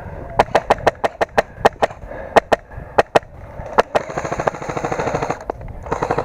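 Airsoft guns firing: a string of single shots at an uneven pace, then about a second and a half of fast, even rattling fire that sounds like a full-auto burst.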